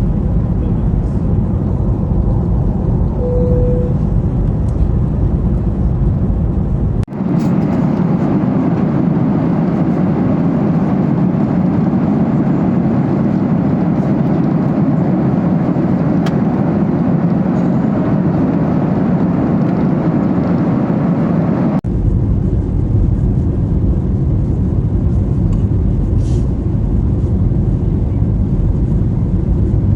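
Steady, loud aircraft cabin noise from engines and rushing air during flight. The sound changes abruptly about seven seconds in, losing its deep rumble, and switches back about fifteen seconds later, as if cut between recordings. A short steady tone sounds a few seconds in.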